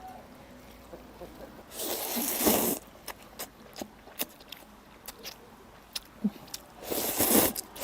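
Noodles being slurped twice, each slurp lasting about a second, with light chopstick clicks against the bowl between them.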